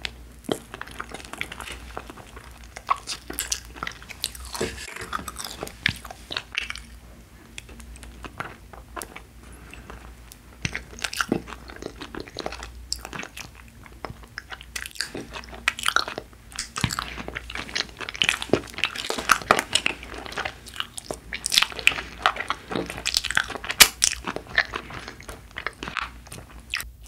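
Close-miked biting and chewing of Trolli ball-shaped gummy jellies: an irregular, continuous run of short mouth clicks and smacks.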